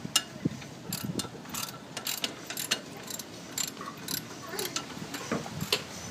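Irregular sharp metallic clicks and clanks, a few each second, from hand tools and metal engine parts being worked on an ATV.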